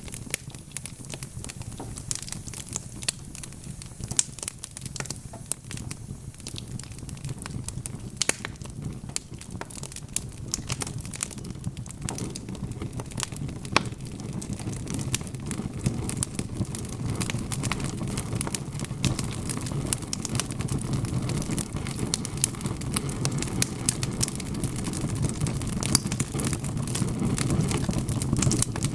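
Wood fire burning in a fireplace: frequent sharp crackles and pops of the logs over a low, steady rumble of the flames that grows a little louder in the second half.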